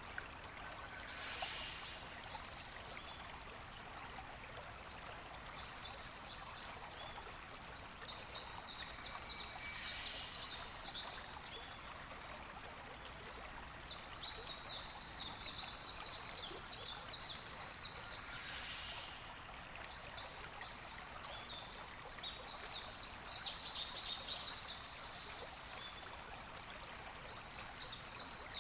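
Birds singing in rapid, high-pitched trilling phrases several times through, over a steady rushing of water.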